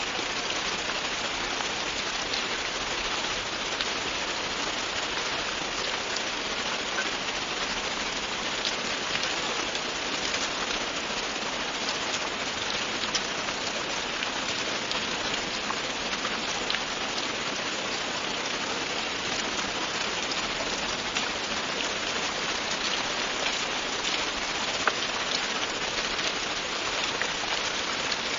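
Steady heavy rain falling on a surface: a dense even hiss with scattered individual drops ticking through it.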